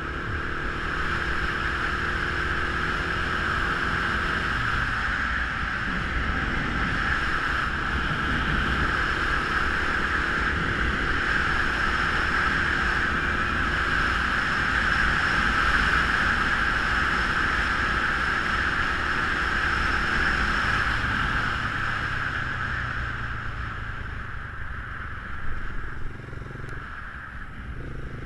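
Geon Scrambler 250 motorcycle under way: the engine runs with its pitch shifting, under a steady rushing noise of wind and road. It eases off and gets quieter over the last few seconds.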